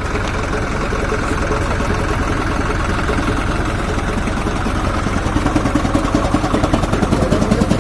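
Tractor engine running a chaff cutter, a steady engine drone. About five seconds in, a fast, even pulsing comes up and grows louder.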